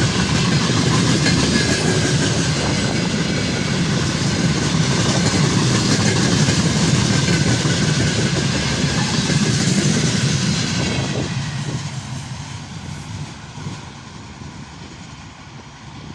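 Freight train's wagons rolling past, loud and steady for about ten seconds, then fading as the train draws away.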